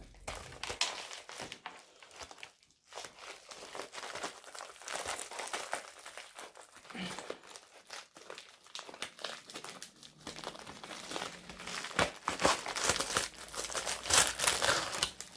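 Plastic packaging of a diamond painting kit being handled and opened, a continuous irregular crinkling that grows louder and busier in the last few seconds, with a few sharp snaps.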